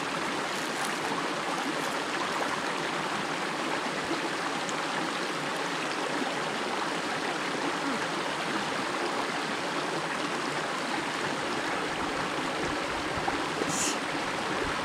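Steady, even sound of a flowing river or stream running, with a brief high-pitched sound near the end.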